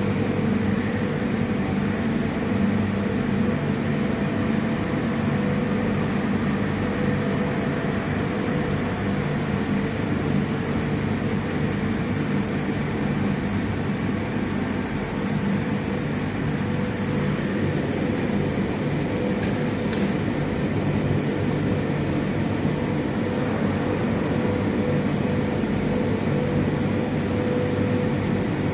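Steady industrial machinery running in a steel rolling mill: a constant drone and hum with a steady mid-pitched tone, unchanging throughout. There is a single sharp click about twenty seconds in.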